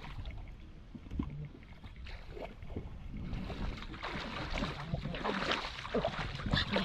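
Irregular water splashing and sloshing.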